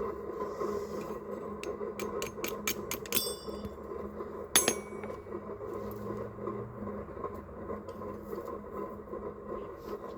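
Hammer peen striking a mild-steel belt buckle: a quick run of light, ringing metallic taps, then one harder ringing strike about four and a half seconds in, over a steady background hum.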